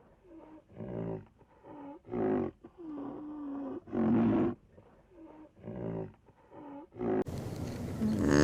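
A large animal giving a series of short, deep roaring calls, roughly one a second, some louder than others. The calls stop about seven seconds in.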